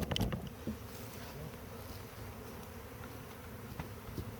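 A mass of honeybees from a wild colony buzzing steadily in a dense, even hum, with a few sharp handling clicks right at the start.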